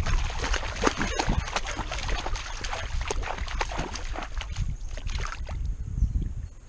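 Water splashing and sloshing right against a dog-mounted GoPro as the dog moves through a lake, in irregular splashes that die down near the end.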